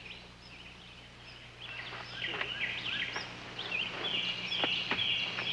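Birds chirping and calling in short rising and falling notes, growing louder and busier about two seconds in, over a steady low hum.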